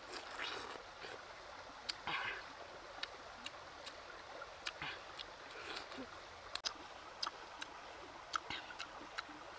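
Wet, juicy bites and chewing of fresh pineapple, with scattered mouth smacks and clicks.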